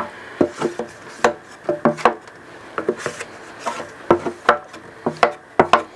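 A cooking utensil knocking and scraping against metal cookware in irregular taps and clicks, some ringing briefly.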